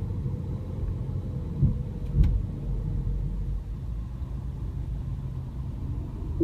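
Cabin noise of a 2015 Mini Cooper S Countryman being driven: a steady low engine and road rumble, with two brief thumps about two seconds in.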